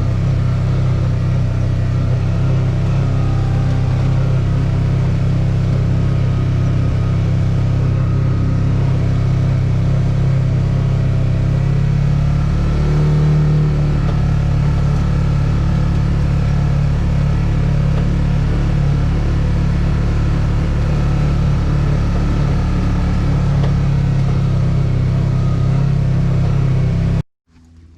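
Vehicle engine running steadily at an even speed, with a brief change in pitch about halfway through; it stops abruptly near the end.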